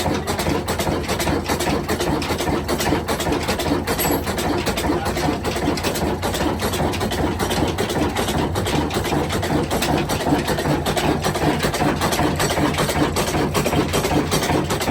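Diesel engine running at a steady idle with an even, rapid clatter.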